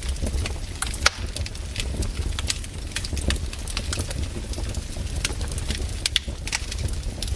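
Wood campfire burning, crackling with frequent irregular pops and snaps over a steady low rumble.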